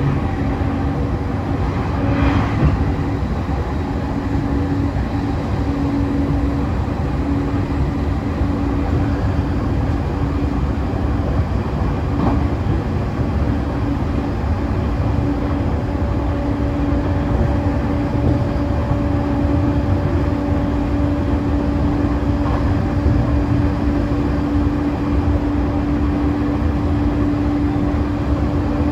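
JR East E531 series electric train running, heard from on board: its Hitachi IGBT inverter-driven traction motors give a steady tone over the rumble of the wheels on the rails.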